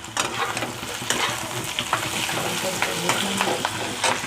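Sliced onions and green chillies frying in hot oil in a pan, a steady sizzle, while being stirred, with repeated sharp clicks and scrapes against the pan.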